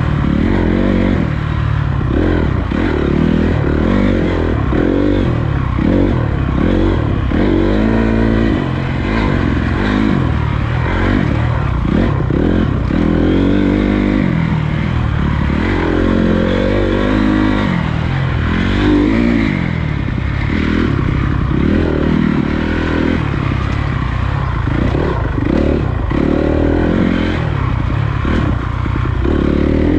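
Honda CRF250 dirt bike's single-cylinder four-stroke engine under way, its pitch rising and falling over and over as the throttle is opened and closed, with clattering and scraping over rough ground.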